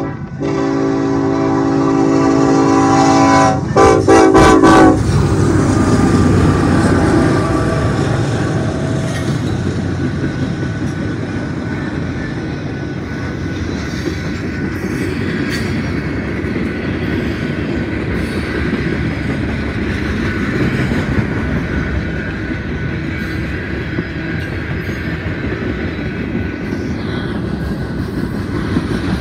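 A diesel freight locomotive's air horn blows a long chord for about five seconds, breaking up near its end. Then the locomotives and a string of lumber-loaded flatcars rumble past close by, their wheels clicking over the rail joints.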